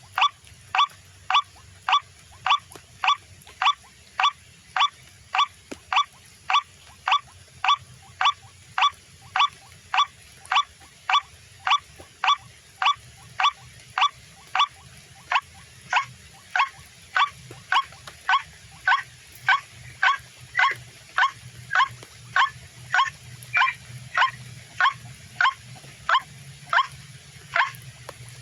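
White-breasted waterhen call, a short note repeated over and over at an even pace of about three calls every two seconds, played through a loudspeaker as a trapping lure, with a steady low hum underneath.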